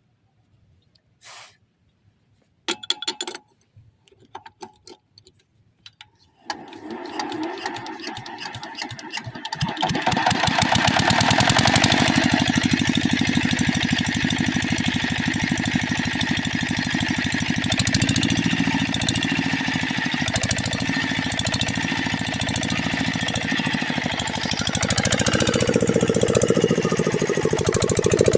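Single-cylinder 8 hp Rajkot diesel engine of a water pump set starting after a few handling knocks, picking up speed over a few seconds, then running steadily with a fast, even knocking beat. Its sound changes a little a few seconds before the end.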